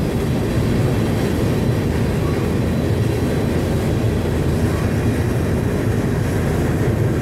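Steady rumble and rattle of a moving freight train, heard from a freight car riding on it.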